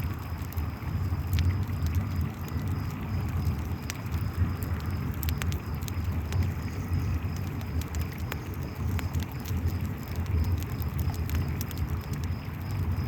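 Campfire crackling in scattered sharp pops over the steady low rush of a flowing river, with crickets chirping in a faint, even, high-pitched pulse.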